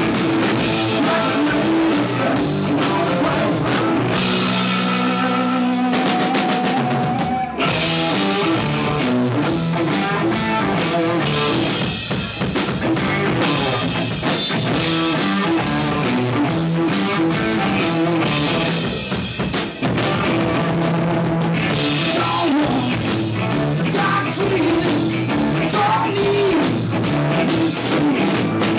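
Rock band playing live: drum kit, guitar and singing, loud and continuous, with two short breaks in the playing, about seven and twenty seconds in.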